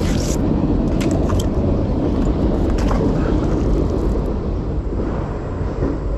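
Nails on a magnet-fishing magnet clicking and clinking several times in the first three seconds, over a steady low rumble.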